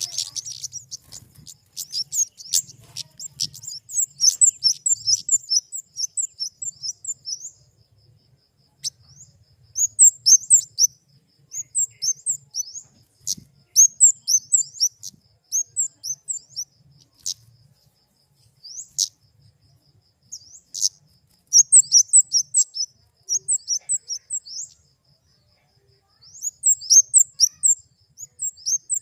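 Flowerpecker (kemade) giving rapid, high-pitched chip and twitter calls in bursts of several seconds, with short pauses between bursts.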